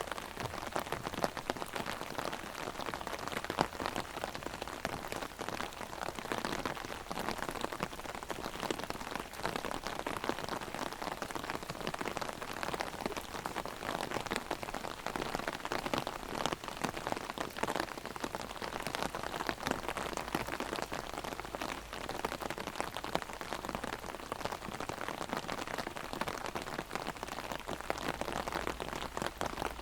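Heavy rain hitting an open umbrella overhead: a dense, steady spatter of drop ticks.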